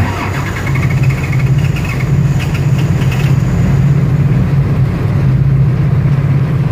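Skid loader's diesel engine running with a steady low drone just after a cold start with glow plugs, not yet running well: the owner expects it to stall.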